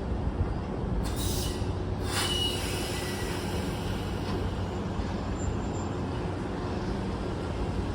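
Nishitetsu 600 series electric train with a steady low rumble. Two short bursts of hiss come about one and two seconds in, and a brief high squeal follows just after the second.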